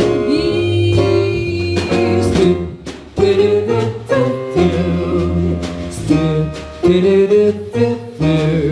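Jazz quartet playing, with a female singer holding the last word of a sung line for about two seconds before the instruments carry on alone.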